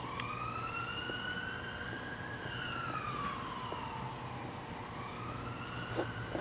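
Siren wailing: one slow rise and fall in pitch over about four seconds, then starting to climb again.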